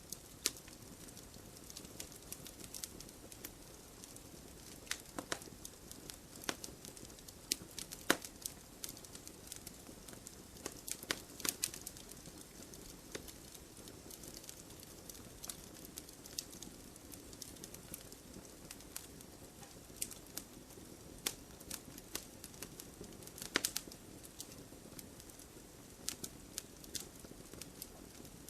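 Campfire burning with a steady low hiss and irregular crackles and pops of burning wood, a few of them sharper and louder.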